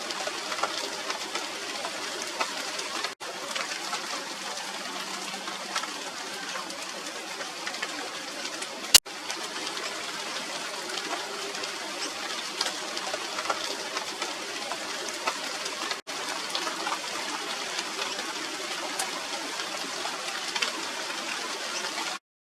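Steady rain falling on the leaves of a Radermachera sinica (China doll) tree, a dense patter of small drops. One sharp click about nine seconds in, and the sound cuts off just before the end.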